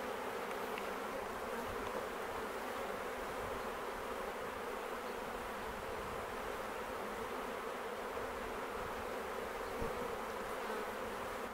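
Honey bee swarm buzzing: a steady, dense hum of many bees flying around a swarm being collected.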